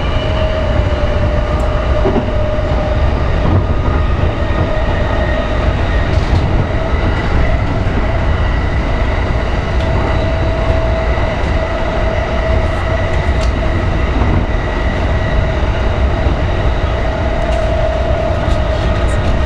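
Electric commuter train running along the track, heard from inside the front car. There is a steady low rumble of wheels on rail, with a steady whine held over it.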